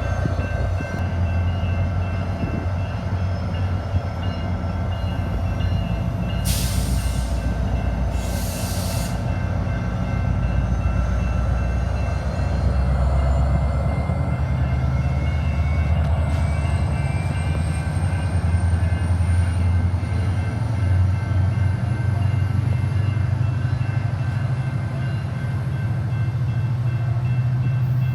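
A train rumbling steadily past, with the deep running of the locomotive and cars throughout and some steady ringing tones above it. Two short hisses come close together about a quarter of the way in.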